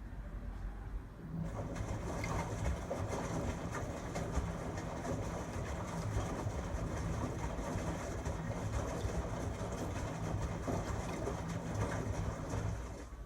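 LG Tromm front-loading drum washing machine's drum turning and tumbling the wash, its motor humming under a rough churning of laundry and water. It starts about a second in and stops just before the end, one turning phase of the wash cycle.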